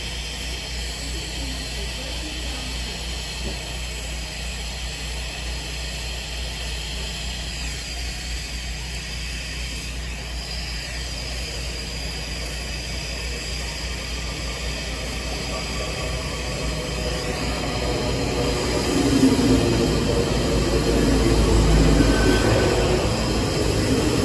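Great Western Railway Class 800/802 intercity train approaching along the track: a steady hiss and low hum grow louder from about halfway and are loudest near the end as the train runs past close by.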